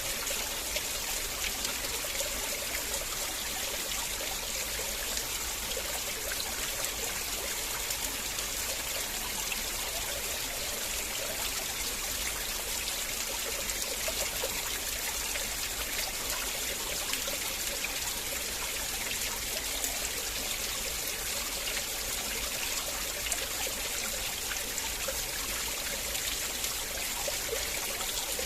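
River water flowing steadily over stones, a constant trickling rush with no break or change.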